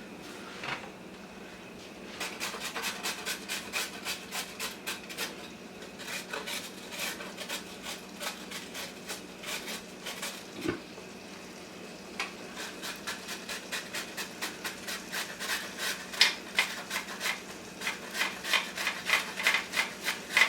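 A carrot being shredded on a grater: quick, repeated rasping strokes, several a second, starting about two seconds in, with a couple of short pauses.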